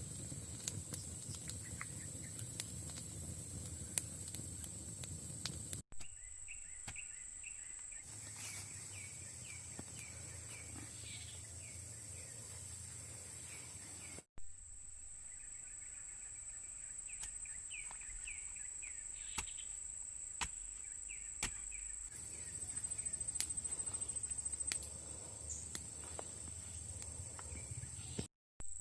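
Outdoor ambience: birds chirping in short repeated calls over a steady high-pitched whine, with scattered sharp clicks.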